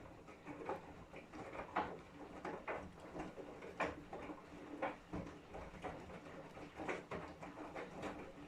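Samsung EcoBubble front-loading washing machine early in a wash cycle: the drum turns with wet laundry tumbling inside, making irregular soft knocks and splashes over a steady low motor hum.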